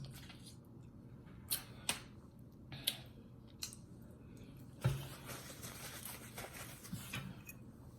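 Eating sounds: scattered short mouth clicks and smacks while chewing, with a sharper click and soft knock about five seconds in.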